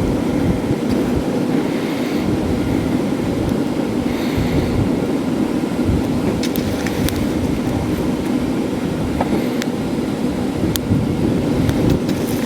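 Forge blower fan running steadily with a hum, air rushing up through the burning paper and kindling in the coke forge, with a few sharp crackles from the fire. Wind buffets the microphone with low rumbling.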